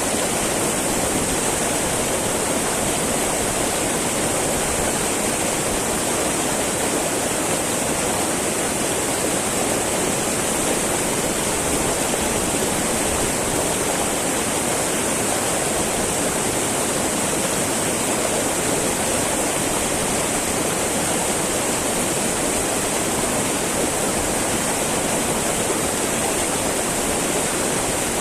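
Small mountain river babbling over rocks, a steady even rush of flowing water.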